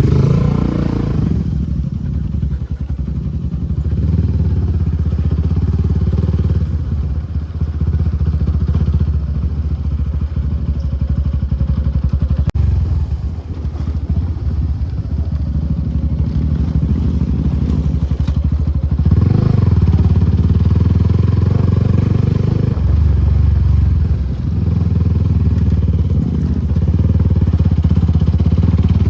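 Suzuki Gixxer SF250's single-cylinder engine running through an aftermarket Akrapovic exhaust. The note eases off briefly a few times and is louder again from about two-thirds of the way through.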